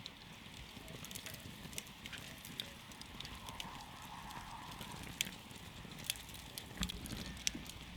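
Wood campfire crackling: irregular sharp pops and snaps over the low, steady rush of the burning fire, with a few louder pops in the second half.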